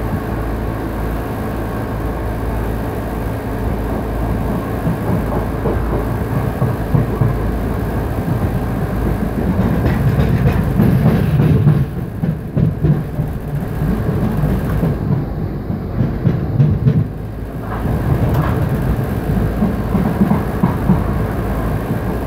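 Electric commuter train running over the rails, heard from inside the carriage: a steady rumble of the wheels and car body. The higher hiss dulls for a few seconds about halfway through, then returns.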